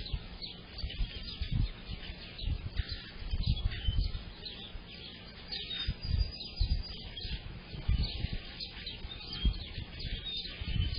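Several small songbirds chirping and singing together in quick, overlapping notes, with irregular low gusts of wind buffeting the microphone.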